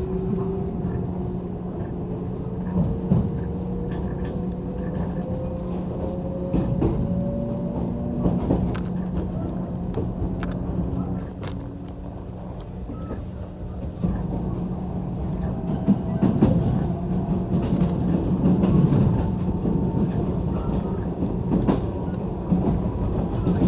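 JR 185-series electric train heard from inside a carriage while running: a steady low hum, with a whine that slowly rises in pitch twice as the train picks up speed, and scattered sharp clicks.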